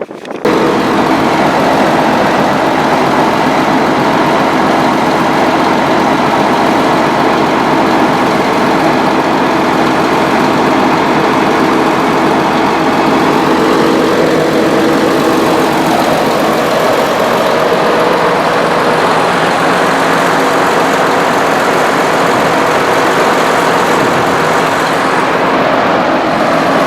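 An engine running steadily at constant speed, with a steady drone and hum; it starts abruptly just after the beginning.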